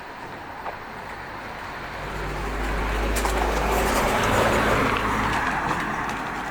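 A motor vehicle passing: its engine and tyre noise swells about two seconds in, peaks midway and fades away.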